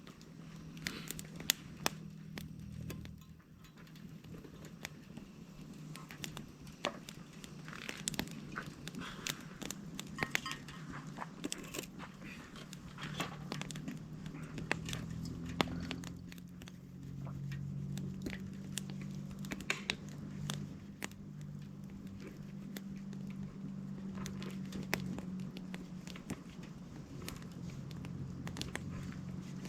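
Wood campfire crackling, with many sharp pops at irregular intervals, over a low steady hum.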